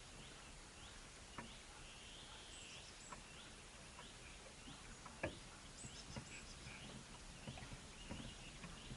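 Small birds chirping faintly, short high calls repeating about twice a second, with several sharp taps in between, the loudest about five seconds in.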